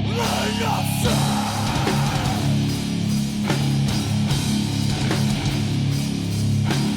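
Heavy rock band playing an instrumental passage: distorted electric guitars holding low chords over a drum kit.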